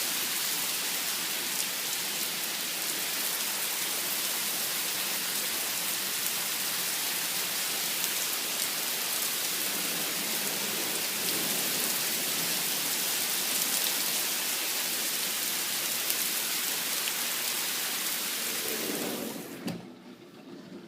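Heavy rain pouring down, a steady hiss, which becomes much quieter suddenly near the end.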